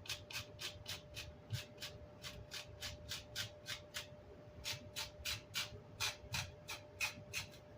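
Quick, even scrubbing strokes on speaker grille cloth, about five or six a second, scraping leftover chipboard residue off the cloth, with a short lull a little before the middle.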